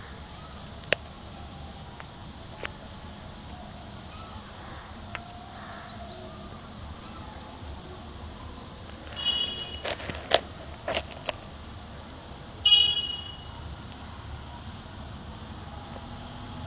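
A bird calling: faint high chirps throughout, with two short, louder squeaky calls about nine and thirteen seconds in. A few sharp clicks come between them.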